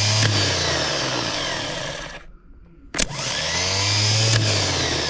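Chevy/GMC squarebody truck starter motor bench-tested straight off a battery, spinning freely with a whine that winds down and stops about two seconds in, then clicking in again and spinning up a second time. Both runs show the starter and its solenoid are working.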